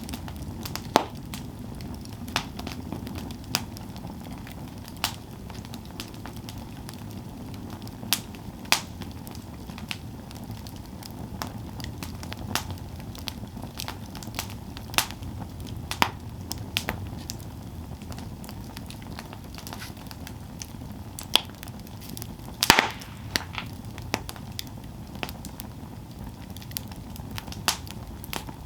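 Campfire burning with a steady low rumble and irregular sharp crackles and pops of the wood, one louder pop near the end.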